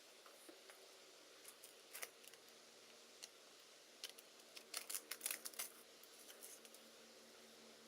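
Small sharp clicks and light taps of hands and tools on a Hasselblad Winder CW being handled, with a quick cluster of clicks about five seconds in, over a faint steady hum.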